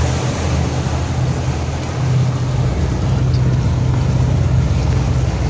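Motorboat engine running steadily underway, a low even hum under a noisy hiss. Its low end grows heavier about halfway through.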